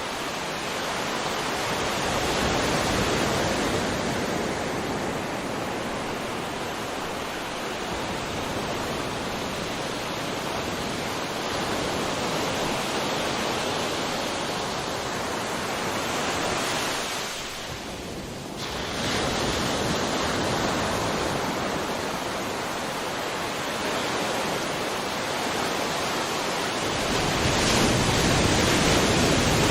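Sea waves surging onto a shore: a continuous rush of surf that swells and eases, with a brief lull a little past the middle and a louder wave near the end.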